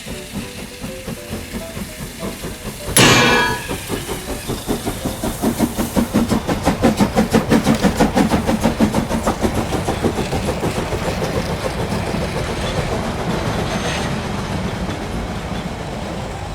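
Train running with a steady rhythmic clickety-clack of about four beats a second, after a sudden sharp burst about three seconds in; the rhythm is loudest in the middle and eases off toward the end.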